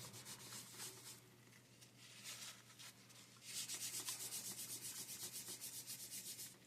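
Faint rubbing strokes, quick and even, several a second in the second half, as dried, crusty thermal paste is wiped off a graphics card's cooler.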